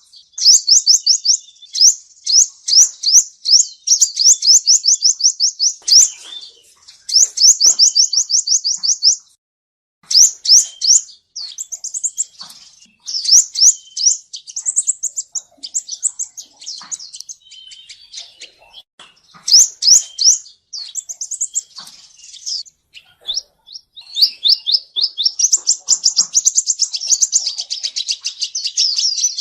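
Male sunbird singing fast, high trills of short upslurred notes, about eight a second, in runs of a few seconds with brief breaks between them.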